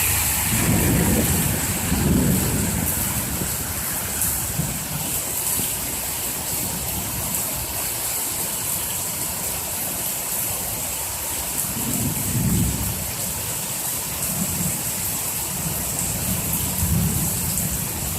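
Heavy rain falling in a thunderstorm, a steady hiss, with several low rumbles, the strongest about one to two seconds in and about twelve seconds in.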